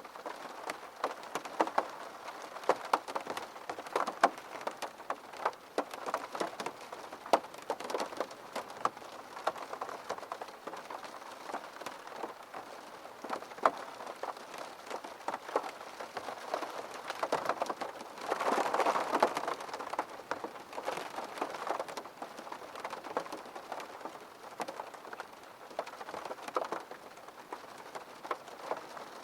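Rain falling on a window pane: irregular sharp drop taps over a steady patter. A brief louder rush of heavier rain comes about two-thirds of the way through.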